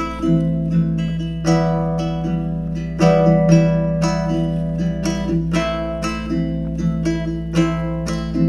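Instrumental intro of a karaoke backing track: plucked guitar chords, about two strokes a second, over a held low note.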